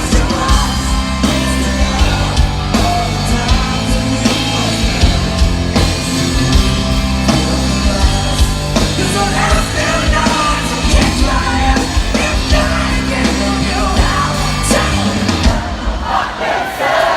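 Live heavy rock band playing loud, with drums, distorted guitars and bass under yelled, sung vocals.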